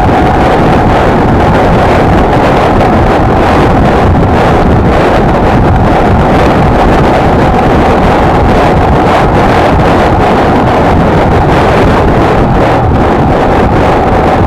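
Heavy wind buffeting on the microphone of a moving Honda XLR125R motorcycle, its air-cooled single-cylinder four-stroke engine running underneath at a steady cruising speed.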